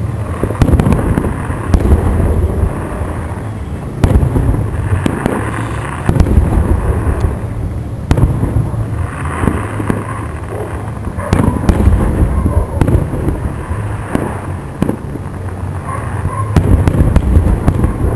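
Aerial firework shells bursting in a rapid, overlapping series of loud booms and sharp reports, over a continuous low rumble.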